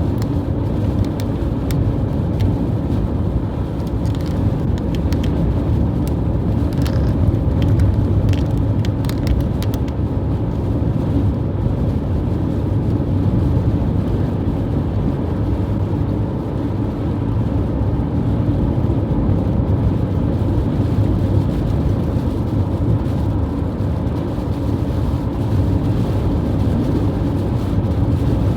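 Strong wind blowing in a steady low rumble, with a few brief clicks about four to ten seconds in.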